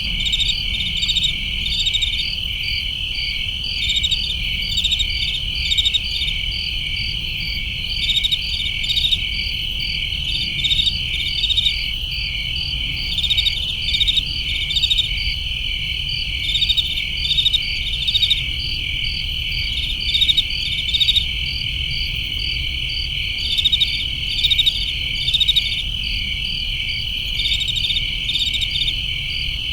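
Crickets chirping: a steady high trill, with clusters of louder chirps coming every second or two, over a low steady rumble.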